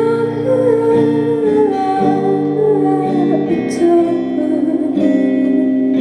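A woman's voice holds one long sung note on the word "my", wavering in pitch and ending about three and a half seconds in, over slow plucked guitar chords that ring on.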